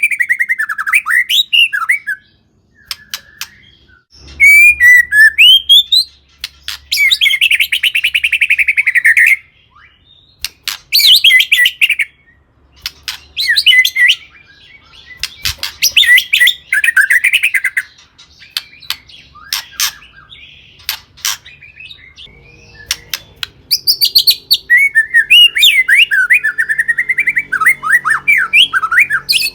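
White-rumped shama singing loudly in bursts of varied whistled phrases, rapid chattering trills and mimicked notes, with short pauses between phrases.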